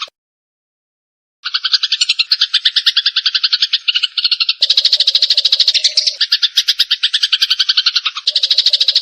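Eurasian tree sparrows fighting: a continuous, very rapid string of harsh chattering chirps, starting abruptly after a second and a half of silence. A second, denser layer of chatter joins about halfway through.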